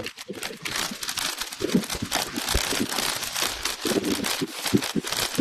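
Wind buffeting a microphone carried on a moving bicycle, with most of the wind filtered out, leaving a crackly hiss and irregular low thumps.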